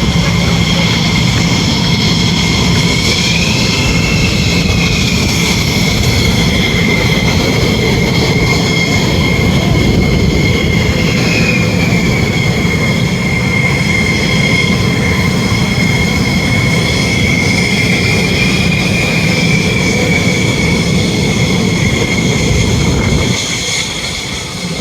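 Jet fighter engines running steadily with a loud rushing roar and a high whine that wavers slightly in pitch. The sound drops off a little about a second before the end.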